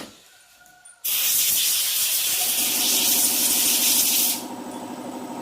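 A loud, steady hiss that starts suddenly about a second in and cuts off about a second before the end. Under it, from about halfway through, a machine starts running with an even rapid pulse.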